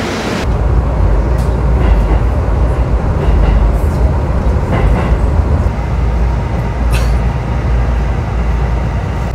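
Commuter train running, heard from inside the passenger car: a steady low rumble, with a few faint clicks and knocks.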